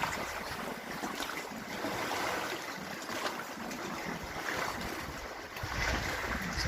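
Lake waves washing and splashing around a kayak, with wind on the microphone that gets stronger as a low rumble near the end.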